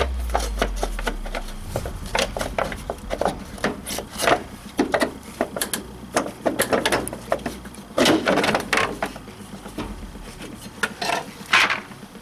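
Irregular clicks, knocks and scraping of hand tools and parts being worked, with louder scraping rubs about four and eight seconds in.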